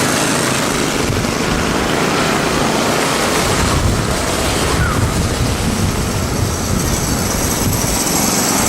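Steady, loud noise of a vehicle running close by.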